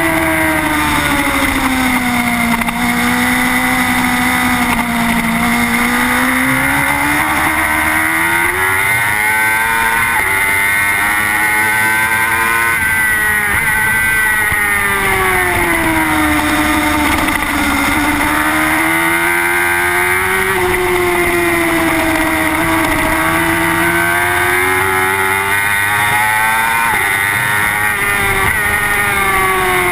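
Yoshimura Suzuki GSX-R superbike's inline-four engine heard on board at race pace. The pitch drops several times as the rider slows and downshifts for corners, then climbs as he drives out, including a long rise from about six seconds in to about fourteen.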